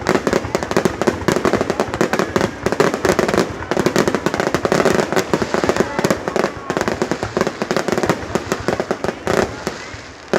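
Fireworks display going off in a dense, continuous barrage: many sharp bangs and crackles every second, easing slightly near the end.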